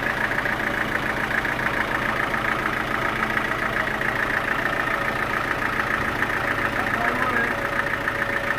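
Sawmill machinery running steadily: an engine turning at an even speed with a fast regular beat.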